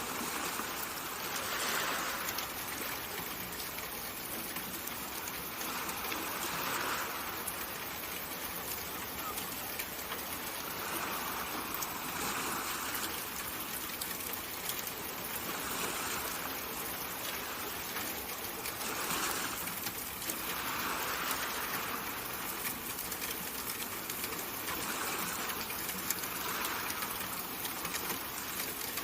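Steady rushing-water ambience: a soft, even hiss that swells gently every few seconds.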